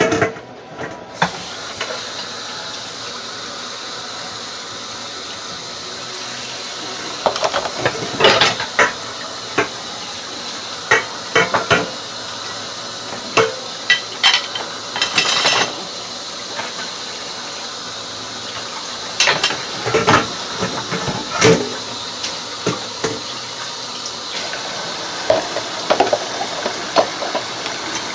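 Tap water running steadily into a kitchen sink during hand dishwashing, with scattered clinks and clatters of dishes and cutlery.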